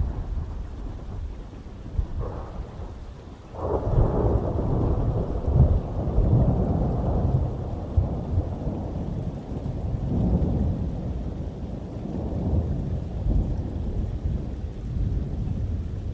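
Thunder rumbling over steady heavy rain, with a louder clap about three and a half seconds in that rolls on for several seconds and swells again later.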